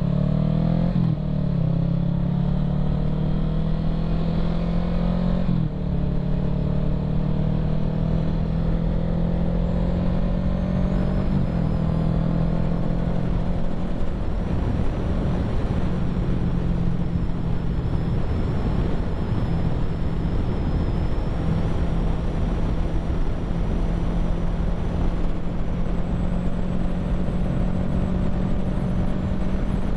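Kawasaki Ninja 650's parallel-twin engine pulling hard and rising in pitch, with upshifts about a second in, near six seconds and near eleven seconds, then running at a steady cruise. Wind noise on the helmet-mounted microphone throughout.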